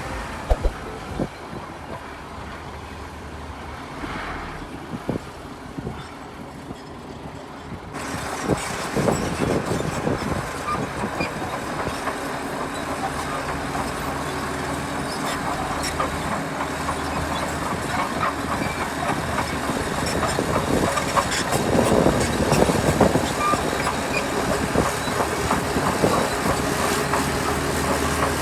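Heavy diesel earthmoving machinery at work: engines running with a steady drone under frequent clanks and rattles. About eight seconds in the sound changes abruptly and becomes louder and fuller.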